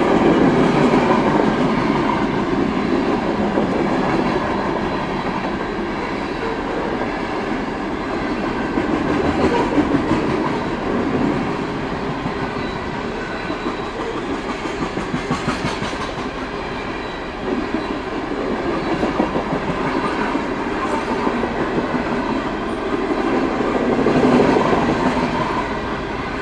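A long, heavy freight train's cars rolling past: the steady running noise of steel wheels on rail, with rapid clicking as the wheels cross the rail joints.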